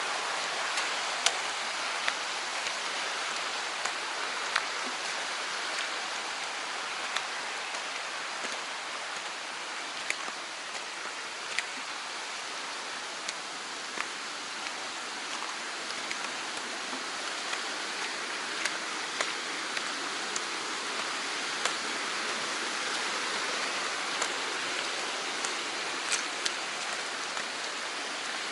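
Mountain stream running, a steady rushing hiss, with scattered sharp ticks every second or two.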